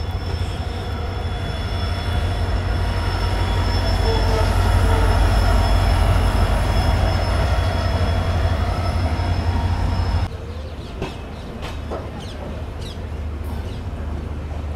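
Passenger train in motion: a heavy low rumble with a steady high-pitched wheel squeal on the rails, as it comes into a station. A little past ten seconds in, the noise drops abruptly to a quieter rumble with scattered clicks and knocks.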